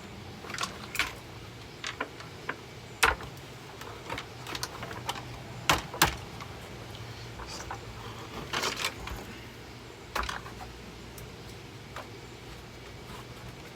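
Plastic housing of a Hoover vacuum cleaner being forced apart by hand: scattered clicks, creaks and sharp snaps, the loudest about three and six seconds in, over a steady low hum.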